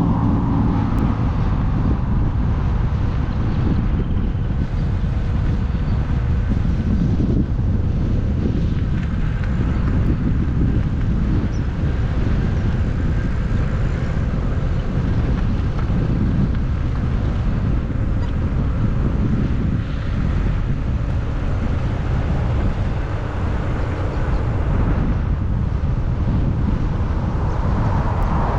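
Wind rumbling on the microphone of a camera carried on a moving bicycle, with a faint steady whine underneath.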